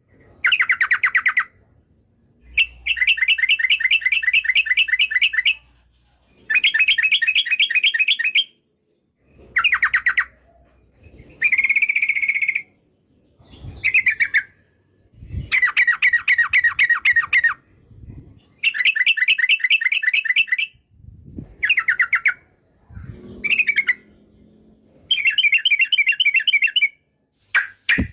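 Yellow-vented bulbul (trucukan) singing a string of short phrases of fast, rapidly repeated notes. Each phrase lasts one to three seconds, with brief pauses between.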